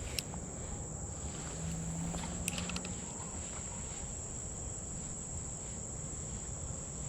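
Insects trilling steadily in one high, unbroken tone, over a low rumble, with a couple of sharp clicks, one at the start and one about two and a half seconds in.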